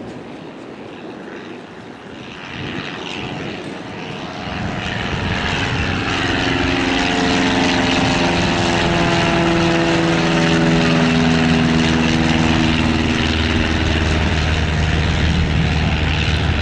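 Propeller engine of a replica First World War aircraft flying overhead, growing louder from about four seconds in as it closes and staying loud.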